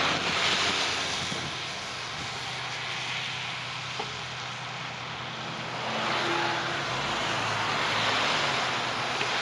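Road traffic passing: vehicles driving by with tyre and engine noise, swelling at the start and again from about six seconds in.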